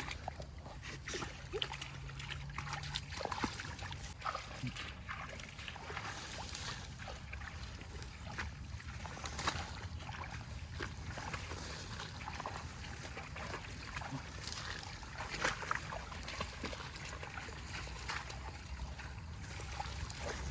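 Irregular small splashes and sloshing of water, many short clicks scattered throughout, over a steady low rumble.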